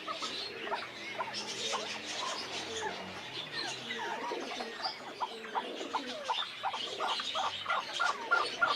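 Northern bobwhite quail chirping and calling over one another, many short calls together, becoming a quicker run of short chirps near the end.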